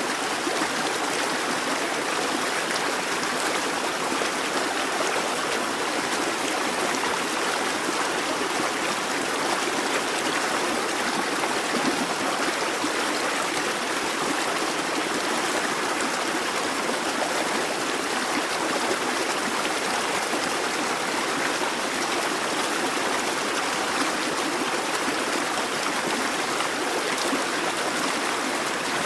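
Busy babbling brook: water running steadily over stones with a continuous rushing, splashing sound.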